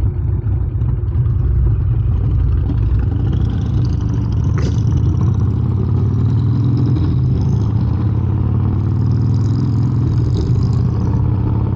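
Harley-Davidson V-twin motorcycle engine running steadily under way, its note rising and falling slightly, with a heavy low rumble.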